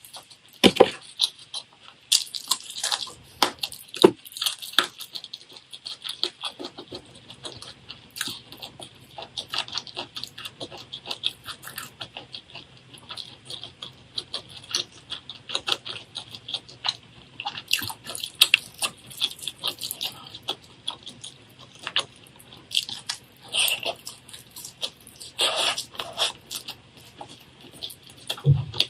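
Chewing and crunching of food: a dense, irregular run of crisp clicks and crackles.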